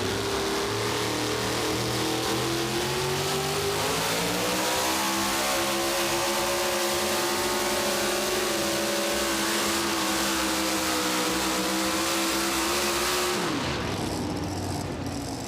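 Super modified pulling truck's engine at full throttle during a pull. Its pitch climbs about four seconds in and holds high, then drops sharply near the end as the throttle is let off.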